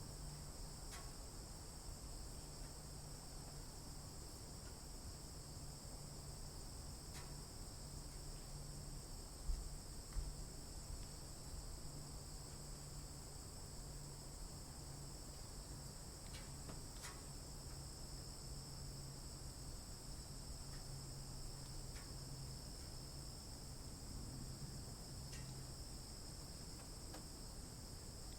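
Steady chorus of insects, a continuous high-pitched trilling, over a faint low hum. A few soft ticks and two low bumps about ten seconds in.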